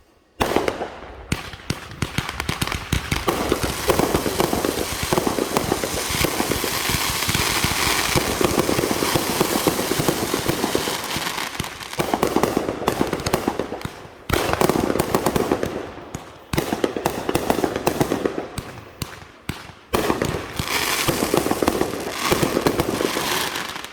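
Fireworks going off: a long, dense run of rapid bangs and crackles, breaking off briefly a few times and stopping near the end.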